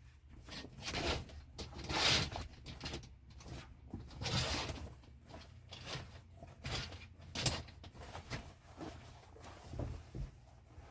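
Rustling and handling noises in a small enclosed space: a run of short swishes, scrapes and soft knocks as things are moved about, over a faint low steady hum.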